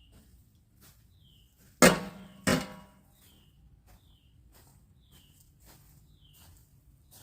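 Two sharp metal clanks with a ringing tail, about two-thirds of a second apart.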